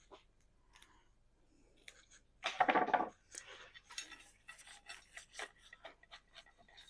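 Flower stems and foliage rustling and rubbing as they are handled and worked into an arrangement, with a louder rustle about two and a half seconds in, then a run of small clicks and crackles.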